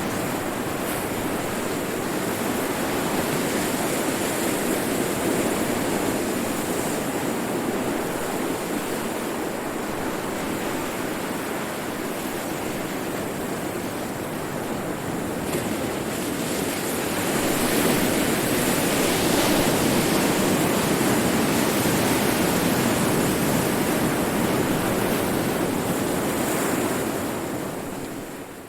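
Ocean surf: waves breaking and washing continuously, swelling louder about two-thirds of the way through, then fading out quickly at the end.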